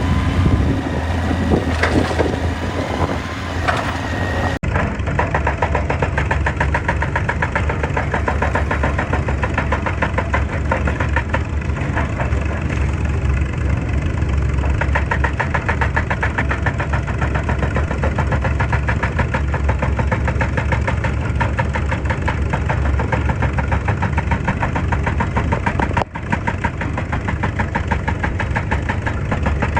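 Excavator's diesel engine running with a rapid, even chug, its sound changing abruptly twice.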